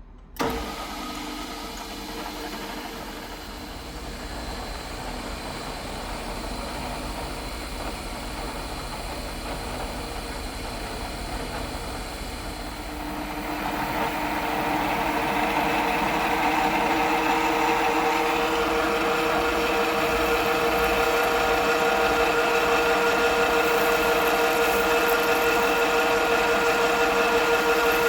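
Milling machine running, drilling bolt holes in a steel drive plate: a steady motor hum with several fixed tones that gets louder and fuller about halfway through.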